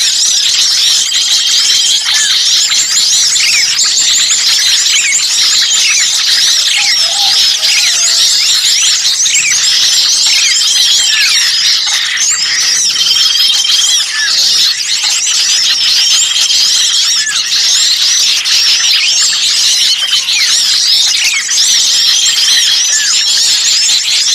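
Bird-lure recording of many small birds calling noisily at once, a dense, unbroken chatter of rapid high-pitched chirps and whistles in the agitated, pinched manner of birds caught in a trap. A short, flat whistle recurs every few seconds within the chatter.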